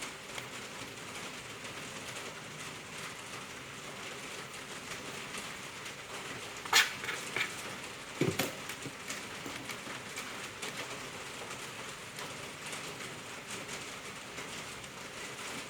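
Steady crackling hiss, with two sharp knocks a little over halfway through.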